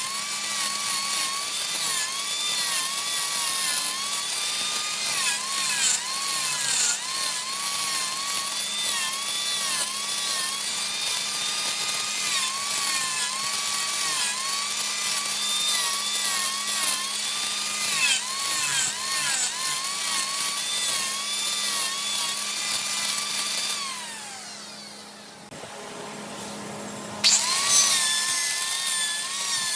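A handheld power tool whining as it works wood, its pitch dipping and recovering again and again as it is pressed into the piece, over a steady low hum. About 24 seconds in it winds down with a falling pitch and goes quieter, then starts up again sharply near the end.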